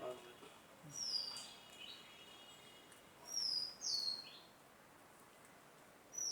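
A bird calling in the background with loud, high whistled notes that dip and then hold: one call about a second in and two more in quick succession around three to four seconds.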